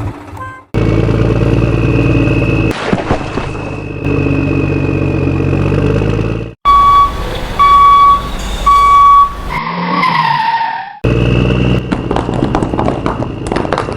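Vehicle sound effects in abruptly cut sections: a motor running, then three loud evenly spaced beeps, a short falling tone, and the motor running again.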